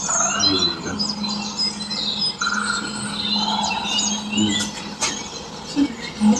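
Birds chirping and twittering: many short rising calls overlapping throughout, over a steady low hum.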